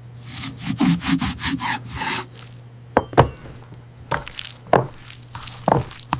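Rubbing or scraping sound effects: a quick run of about eight short strokes in the first two seconds, then scattered single strokes and a few sharp hits.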